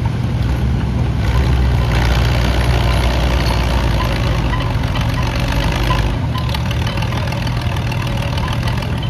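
The two-cylinder engine of a John Deere B tractor running hard during a pulling run. It grows louder a second or two in and eases back about six seconds in.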